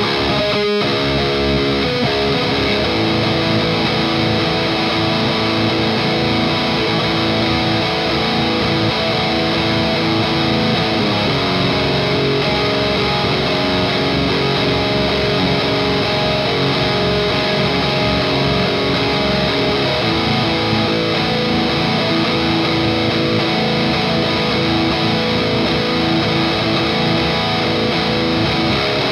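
Electric guitar played continuously with an overdriven, distorted tone through a Noise Pollution Skull Driver V2 Evolution overdrive pedal into a tube amp.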